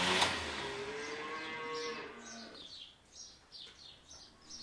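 The David Brown 1490 tractor's starter stops cranking right at the start, then a cow moos once for about two seconds, its pitch rising slightly. Small birds chirp repeatedly through the rest.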